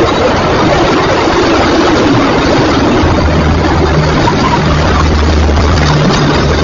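Loud, steady vehicle and road noise, with a low, steady engine drone setting in about three seconds in.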